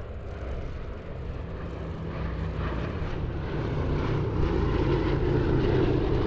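Piston engines of a World War II propeller aircraft in flight, a steady low drone growing steadily louder as it approaches.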